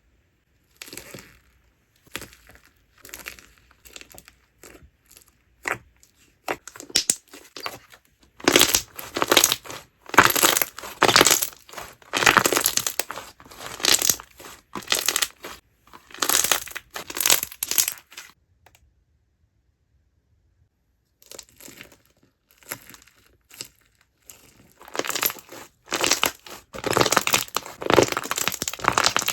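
Slime being poked and squeezed, popping and crackling. Scattered single pops at first, then dense runs of crackling, a pause of a couple of seconds about two-thirds of the way through, and dense crackling again near the end.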